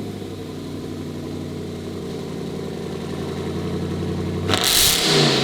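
Supercharged Hemi V8 of a Dodge Hellcat Redeye Jailbreak with an aftermarket loud exhaust, idling steadily. About four and a half seconds in, it is revved sharply once.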